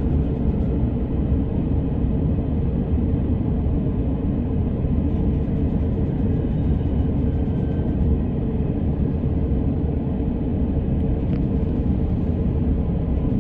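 Running noise of an electric commuter train heard from inside the carriage: a steady rumble of wheels on rails with a faint steady hum over it. A brief click sounds about eleven seconds in.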